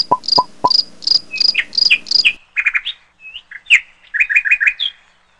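Bird chirping: a run of short, evenly spaced high chirps, about four a second, then a quicker, varied string of rising and falling chirps that stops about five seconds in.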